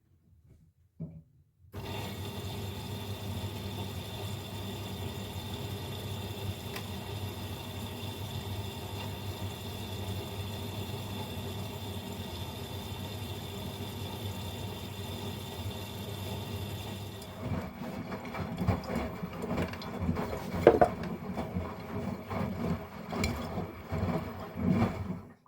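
Miele Professional PW 6065 Vario washing machine starting its second rinse. After a short pause and a click, water flows in with a steady hiss and hum. About two-thirds of the way through, the drum starts turning, with uneven knocks and sloshing from the wet load.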